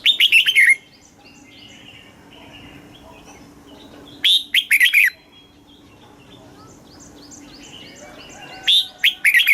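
Red-whiskered bulbul singing: three short, loud phrases about four seconds apart, each a quick run of falling whistled notes, with faint repeated chirps in between.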